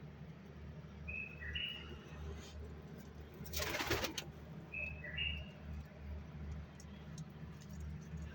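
A bird's short, high two-note chirp, heard twice about four seconds apart. Midway there is a brief rush of noise, the loudest moment, over a steady low hum.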